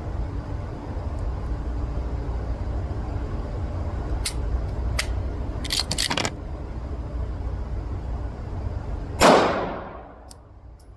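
Pistol shots at an indoor range over a steady low rumble: a few sharp cracks between about four and six seconds in, then a loud shot about nine seconds in whose echo dies away over most of a second.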